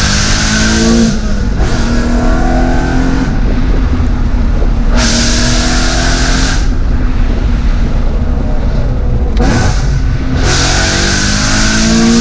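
BMW E92 M3's V8 through an Armytrix aftermarket exhaust, accelerating hard and running up through the gears, its note climbing in pitch with each pull. Loud stretches of hissing noise come in between, about five seconds in and again near the end.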